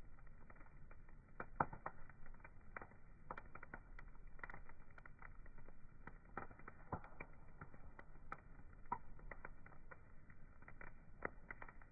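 Wood fire crackling, with many sharp irregular pops and snaps over a faint low hiss.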